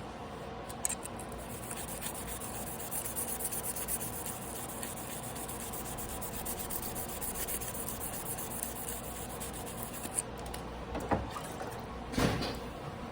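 Carbon-steel knife blade scraped back and forth in quick repeated strokes on a whetstone, with a couple of light knocks near the end.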